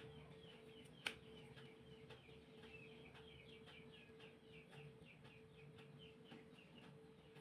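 Faint bird chirping, a quick run of short chirps several a second, over a steady hum, with one sharp click about a second in.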